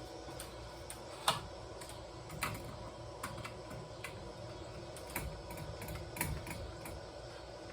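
Irregular light clicks and taps, about a dozen, with the sharpest about a second in, over a faint steady hum: small hard parts being handled while a ceiling fan is taken apart.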